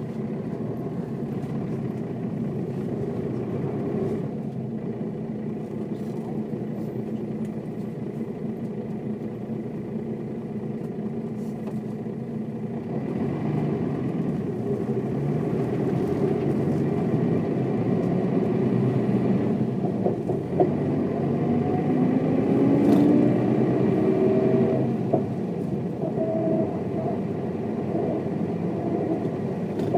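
1995 Mercedes-Benz O407 bus's six-cylinder diesel engine, running steadily and then pulling harder from about halfway through, its pitch rising as the bus accelerates. It eases off near the end, with a short knock or two along the way.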